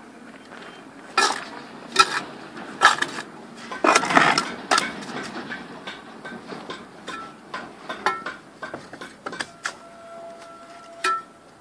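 Bricklaying: hard knocks and clinks of a metal tool striking brick. Several loud knocks come in the first five seconds, then a run of lighter taps, with a brief ringing tone near the end.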